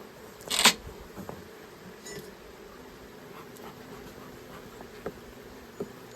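Honeybees humming steadily around an open hive. About half a second in there is one short, loud scraping rasp, followed by a few light knocks as wooden frames are shifted in the hive box.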